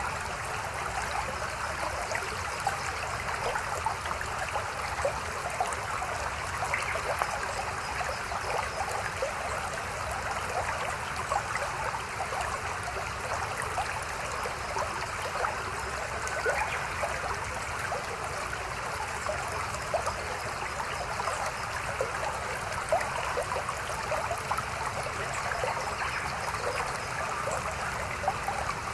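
A small mountain stream running over rocks, a steady babble and trickle of water with many small splashes.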